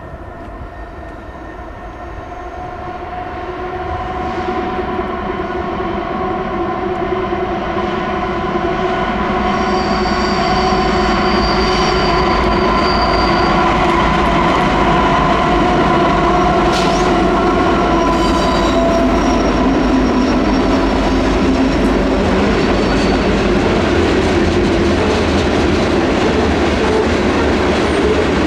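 Norfolk Southern diesel freight locomotives approaching and running past, their engines humming with several steady tones over a low rumble, growing louder over the first ten seconds and then holding steady.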